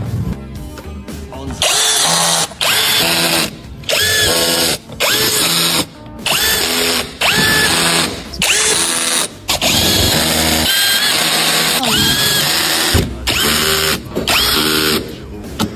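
Handheld electric power tool run in a string of short trigger bursts, each spinning up with a rising whine and stopping after about a second, with brief pauses between them.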